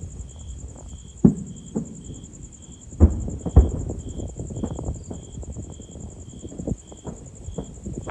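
Fireworks exploding, recorded on a phone: a string of sharp booms at uneven intervals. The loudest three come about one, three and three and a half seconds in.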